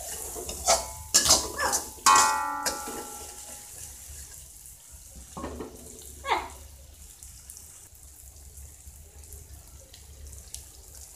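Ground chilli and shallot spice paste sizzling in a wok while it is stirred, the utensils knocking and scraping against the pan several times in the first few seconds, with one ringing metal clang about two seconds in and a longer scrape about six seconds in. After that a quieter steady sizzle, the paste frying until fragrant.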